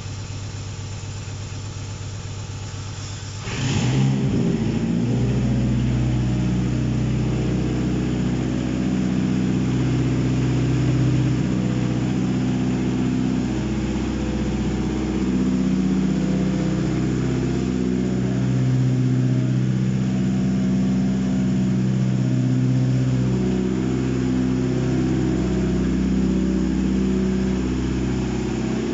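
Mitsubishi 4B11 2.0-litre inline-four engine on a test stand firing up about four seconds in, on its first start. It then runs steadily with slight rises and falls in speed.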